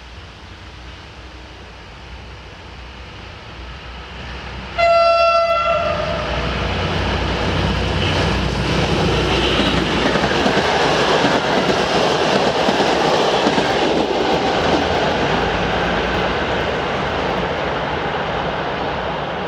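PKP SU45 Fiat-engined diesel locomotive sounding one horn blast of about a second and a half as it approaches at speed, hauling a passenger train. Then comes the loud rumble and clatter of the locomotive and carriages passing close by, easing off near the end.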